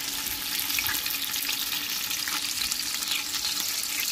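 Chopped bacon and onions sizzling in hot fat in a stainless steel pot, a steady high hiss.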